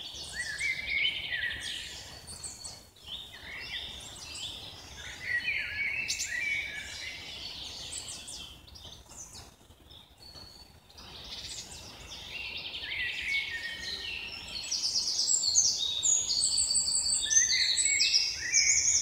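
Several songbirds singing and chirping in a busy outdoor chorus of short high notes, dropping to a brief lull partway through and growing densest over the last few seconds.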